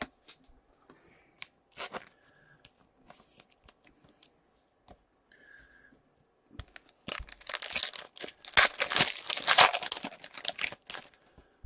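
Foil wrapper of a 2017-18 Upper Deck Series 1 hockey card pack being torn open and crinkled, a dense run of crackling from about seven seconds in, after a few faint clicks of handling.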